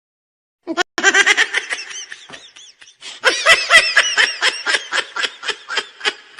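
High-pitched cartoon laughter: a long, rapid run of ha-ha syllables that starts about a second in, dips briefly in the middle, returns louder and tapers off toward the end.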